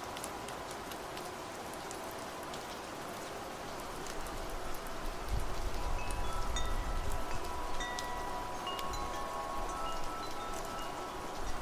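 Steady rain falling, then from about five seconds in wind chimes start ringing with several held tones as gusts of wind rumble low underneath.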